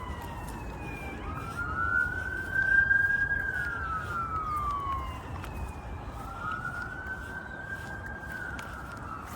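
Emergency vehicle siren wailing, its pitch slowly rising and falling twice, with wind rumbling on the microphone.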